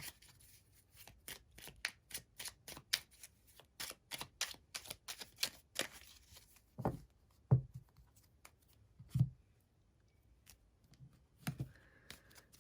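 Oracle card deck being shuffled by hand: a fast run of card flicks and riffles for about six seconds, then a few soft thumps as cards are handled and set down.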